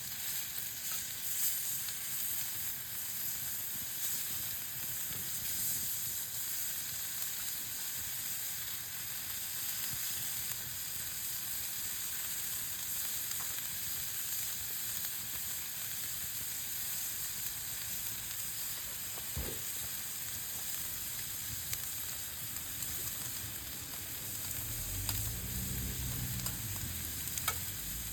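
Meat sizzling steadily on a grill over a campfire, with a few small pops; a low hum comes in near the end.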